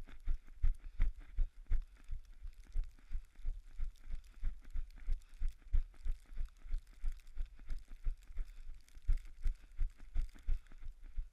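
Running footsteps in snow, a steady beat of about three low thumps a second over a faint hiss.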